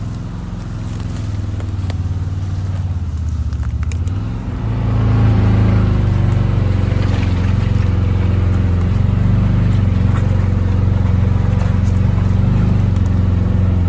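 Can-Am side-by-side's engine running under load as it tows a trailer through the woods, getting louder and holding higher about four and a half seconds in.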